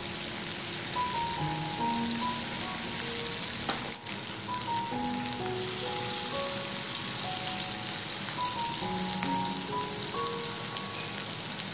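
Sliced, marinated chicken sausage sizzling in hot oil in a frying pan, a steady crackling hiss. A simple background melody plays over it.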